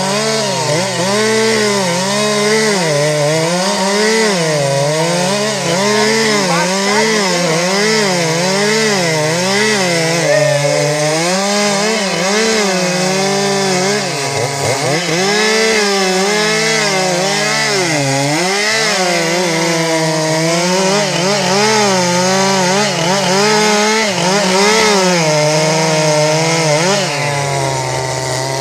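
Two-stroke chainsaw running at high revs while cutting through wood, its pitch dipping and recovering about once a second as the chain loads in the cut.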